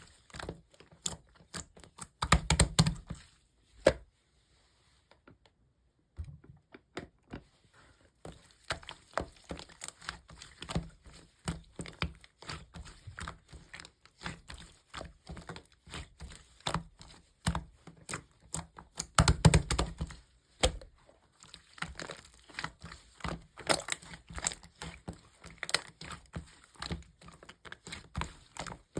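Slime being squished and stretched by hand, with dense crackling and popping clicks of trapped air. A louder cluster of pops comes about two to three seconds in and again around nineteen seconds in, with a pause of about two seconds between four and six seconds in.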